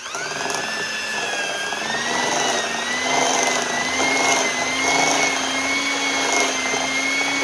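Electric hand mixer starting up and running with a steady whine, its beaters churning wet cookie batter in a glass bowl. The pitch climbs as the motor comes up to speed in the first second or two, then holds.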